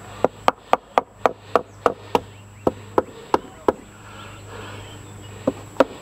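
Hammer blows in a quick series, about four a second, driving a tight-fitting part into place; they pause past the middle and resume near the end.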